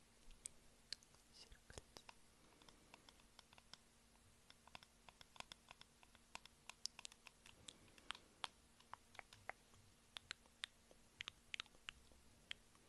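Close-miked mouth sounds of eating: many short, wet clicks and smacks from chewing and the lips, scattered unevenly, several a second in places.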